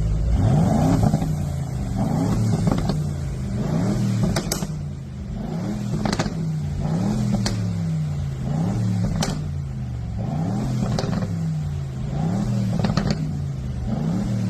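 The 2024 Aston Martin Vantage's 4.0-litre V8 is revved over and over through its exhaust, the note rising and falling about every one and a half seconds, with a few sharp cracks between revs.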